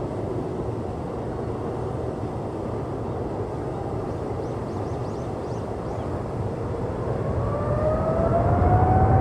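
Jet airliner's engines: a steady rumble, then from about seven seconds in a rising whine that grows louder toward the end as the aircraft comes closer.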